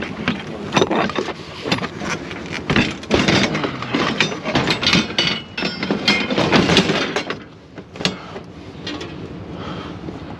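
Clattering and knocking of junk being handled and loaded into a pickup truck, a dense run of knocks for about seven seconds, then a few single knocks.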